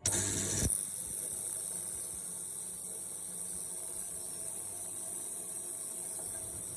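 Ultrasonic cleaning tank running: a steady, loud, high-pitched hiss that starts suddenly, with a louder, fuller rush for the first moment.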